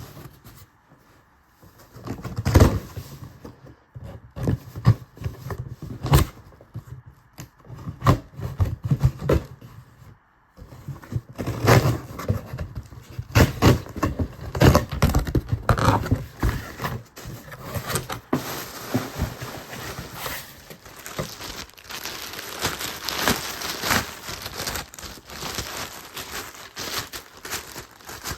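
Cardboard shipping box being opened by hand, with tearing, scraping and knocks of cardboard. From about two-thirds of the way through, packing paper crinkles and rustles steadily.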